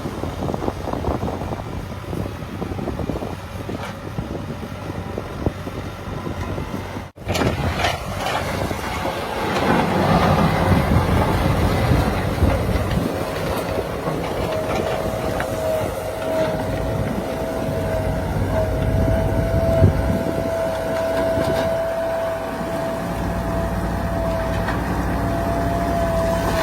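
Heavy diesel engine running, with a sudden break about seven seconds in. A steady high whine joins it about halfway through and holds to the end.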